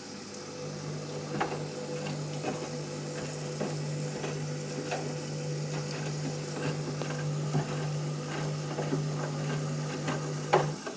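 Candy washing machine turning its drum during a cottons pre-wash: a steady motor hum, with water sloshing and the wet load knocking irregularly. The motor stops just before the end, right after a louder clunk.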